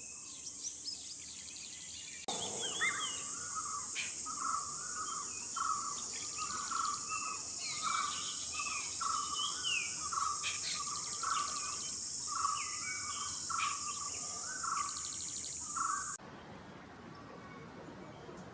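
Birds calling over a steady, high-pitched insect drone: one bird repeats a short call over and over while others chirp. The insect drone starts abruptly about two seconds in and cuts off near the end, leaving fainter chirps.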